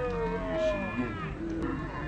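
High-pitched voices shouting and calling, several drawn-out calls overlapping.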